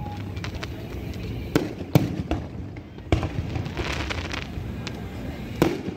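Fireworks going off: a few sharp bangs, about one and a half, two and five and a half seconds in, with a stretch of crackling from about three seconds in.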